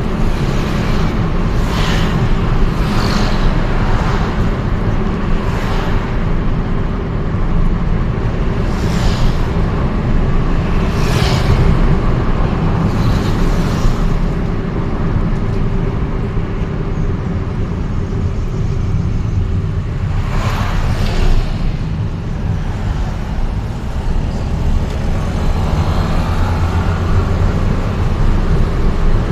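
Vehicle traffic noise recorded on the move through city streets: a steady low rumble of engine and road noise, with several brief whooshes through it.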